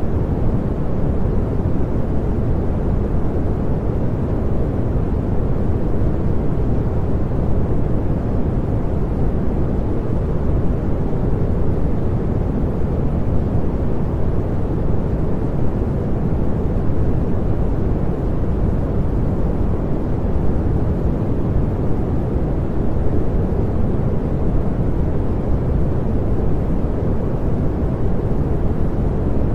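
Steady synthetic pink noise: a constant, even rushing hiss with most of its weight in the low end, unchanging throughout.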